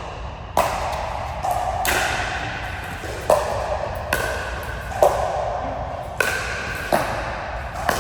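Table tennis rally: a ball clicking sharply off bats and the table about once every second or less, each hit ringing briefly with a hollow ping.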